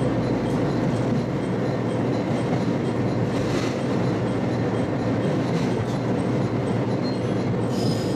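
Steady running noise of an Echigo Tokimeki Railway local train heard from inside the car at the front: wheels rumbling on the rails at speed.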